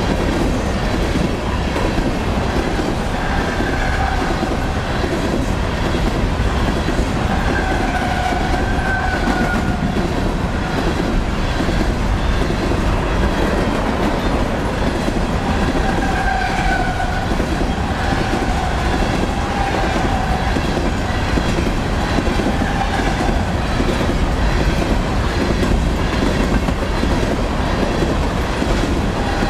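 A long freight train of empty steel coal hopper cars rolling past at speed, with a steady rumble and wheel clatter over the rails. A squealing tone comes and goes several times.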